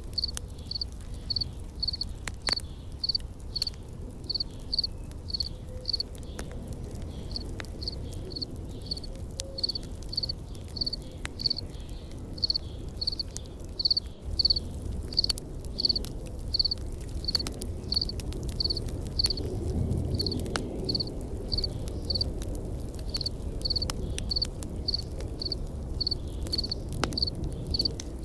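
An insect chirping steadily at a high pitch, about two chirps a second. Underneath are a low rumble and scattered sharp pops of a crackling campfire.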